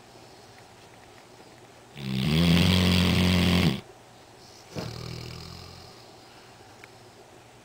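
Black Labrador retriever snoring in its sleep. About two seconds in comes one loud, drawn-out snore lasting under two seconds. A softer snore follows a second later, starting sharply and fading away.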